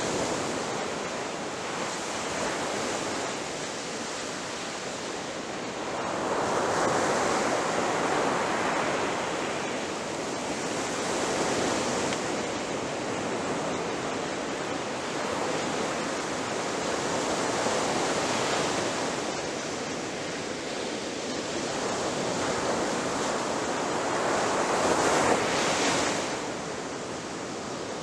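Ocean waves breaking on the shore: a steady wash of surf, swelling louder as a wave crashes, four times at uneven intervals of about five to eight seconds.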